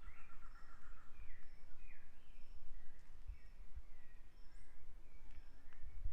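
Songbirds calling in a forest: a run of short slurred notes sweeping up and down, and a thin high note repeating about twice a second. Under them is a low rumble with soft thuds.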